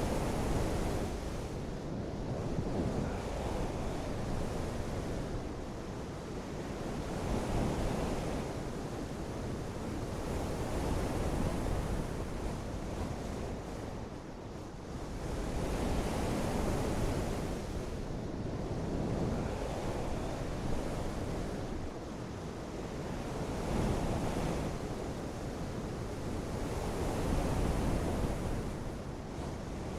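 Rain shower: a steady rushing hiss that swells and eases every few seconds.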